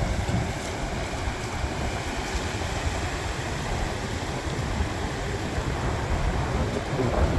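Wind buffeting the camera microphone in a steady low rumble, over the wash of ocean surf breaking on the beach.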